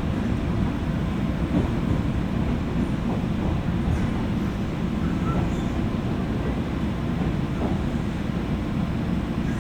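Steady low rumble inside a JR West 201 series electric train car, heard from the seats above the armature-chopper motor car's equipment.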